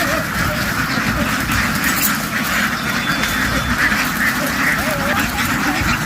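A large flock of domestic ducks quacking all together, many calls overlapping into a continuous loud din.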